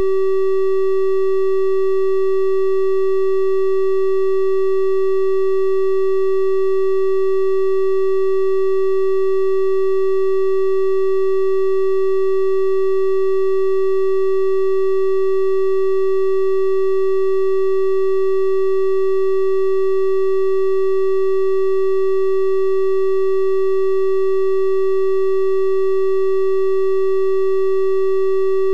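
Continuous synthesized 384 Hz triangle-wave tone, held steady at one pitch and level, with faint higher overtones over the pure hum.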